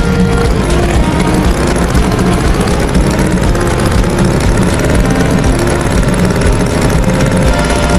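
Cartoon farm tractor engine sound effect running steadily at idle, a dense, even rumble with no breaks.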